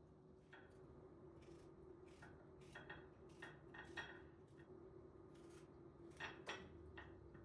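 Faint, scattered light clinks and taps of kitchen dishes and utensils being handled, about a dozen small knocks, over a faint steady hum.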